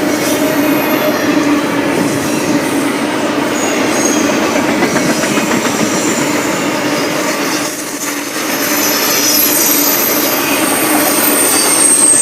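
Freight train cars rolling past, with a steady rumble of wheels on the rails and high-pitched wheel squeal that grows stronger in the second half. The noise dips briefly about eight seconds in.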